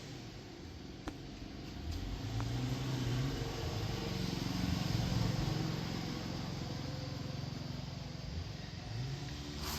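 An engine or motor running, its low hum wandering up and down in pitch and louder in the middle.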